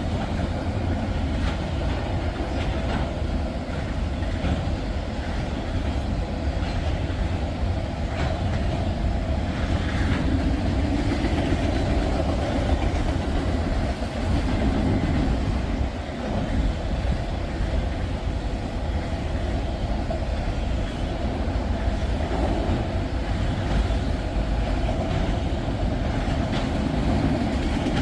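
Long freight train of tank cars and auto racks rolling steadily past close by: a continuous rumble of wheels on rail with scattered clicks of wheels over the rail joints.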